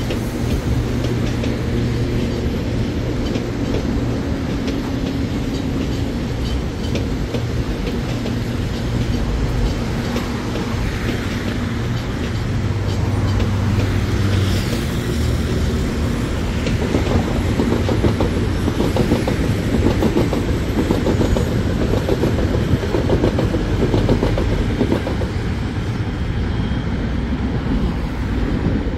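Electric commuter trains running through a multi-track rail yard: a steady low rumble with wheels clacking over rail joints and switches, the clacking thickest in the second half.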